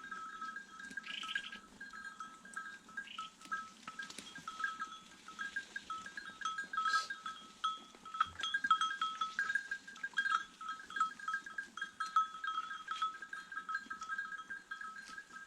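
Small birds chirping continuously in a rapid, high twittering that flicks between two close pitches.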